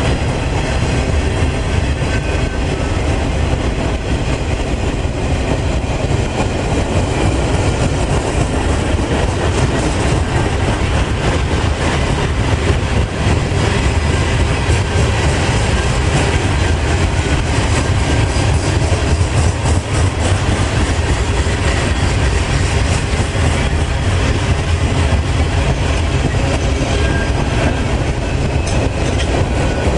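Freight train cars rolling past close by: a loud, steady rumble of steel wheels on rail with a rapid clatter over the rail joints.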